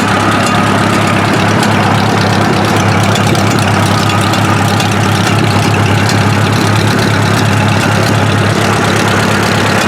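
An engine running steadily at idle, loud and unchanging.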